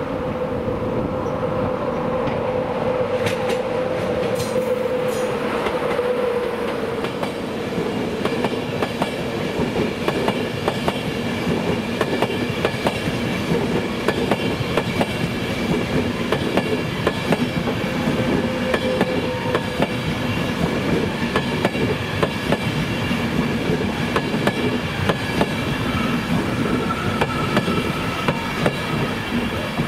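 LNER InterCity 225 electric train, a Class 91 locomotive hauling Mark 4 coaches, running past with a continuous rumble. A steady hum fades over the first several seconds, then the wheels click rapidly and irregularly over the rail joints as the coaches go by.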